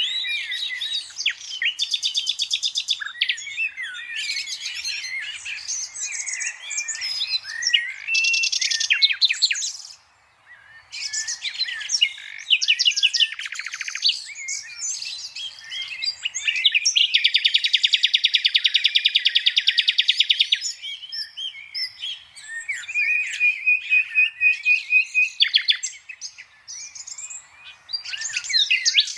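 Green parrot calling: a steady run of high chirps, whistles and rapid buzzy trills, with a brief pause about ten seconds in and a long buzzing trill a little past the middle.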